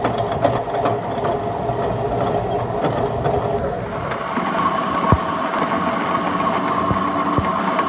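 A workshop machine running steadily with a constant hum; its pitch changes about four seconds in, and a few light knocks sound over it.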